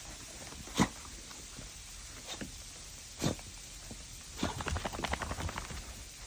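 Dogs moving about: a few sharp knocks, then a rapid run of clicks lasting a little over a second.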